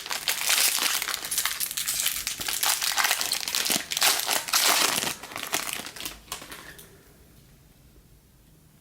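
Wrapper of a 2018 Bowman baseball card pack being torn open and crumpled, a dense crinkling crackle that dies away about six and a half seconds in.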